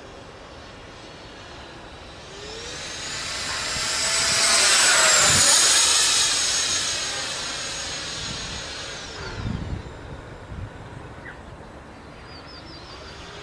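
Electric ducted fan of an RC Eurofighter Typhoon model jet making a fly-by. A high rushing whine swells to a peak about five seconds in, then fades with its pitch dropping as the model passes. A few low thumps come near the middle.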